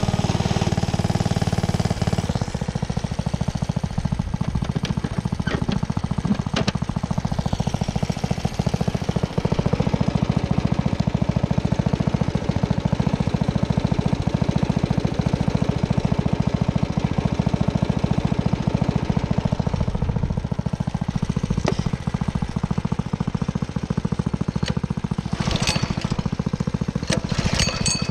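Small single-cylinder engine running steadily, its rapid firing pulses dominating, with a few sharp rattles near the end.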